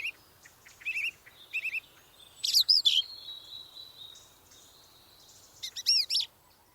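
Songbirds calling: short repeated chirps at first, two louder high swooping calls a little past two seconds in, a thin steady whistle-like tone for about two seconds after them, and another burst of swooping calls near the end. No low bittern boom is heard.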